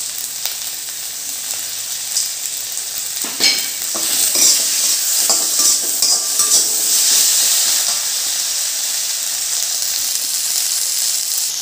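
Spiced masala sizzling as it fries in a pan and is stirred, with a few clicks of the spatula against the pan; the sizzle grows louder about four seconds in.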